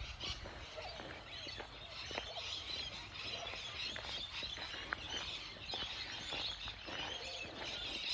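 Birds calling in the bush, a continuous dense chatter of short high chirps and screeches, with rainbow lorikeets in the flock close by.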